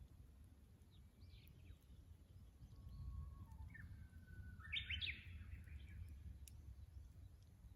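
Japanese bush warbler (uguisu) singing its 'hoo-hokekyo' song: held whistled notes, then a loud quick flourish of rising notes about five seconds in, over a low background rumble.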